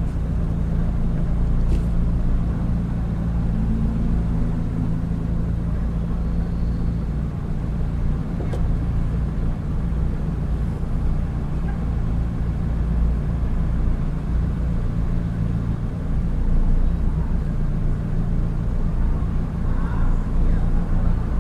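Car engine idling, heard from inside the cabin: a steady low hum while the car stands still in traffic.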